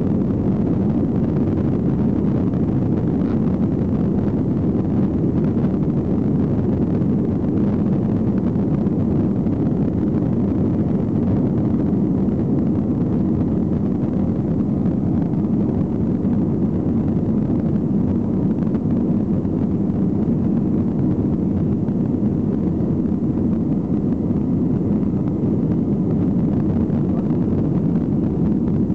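Steady, loud low rumble of a passenger jet's engines and airflow, heard inside the cabin.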